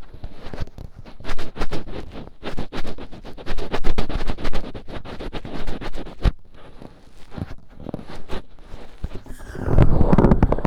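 Finger ear-cleaning ASMR: fingertips rubbing, scratching and digging deep in the ear, close to the microphone, as a quick run of crackling scrapes. A heavier, muffled rub comes near the end.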